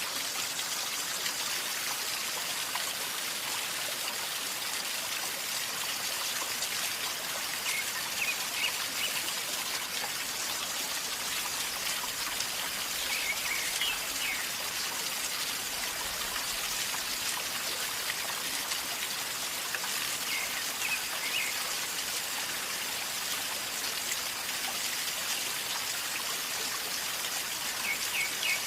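River water flowing calmly and gurgling, a steady, even rush of water.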